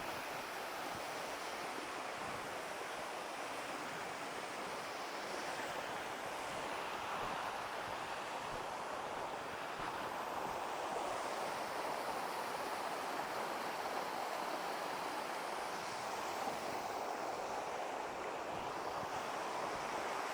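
Tall waterfall, about 60 metres high, pouring over a cliff: a steady, unbroken rush of falling water.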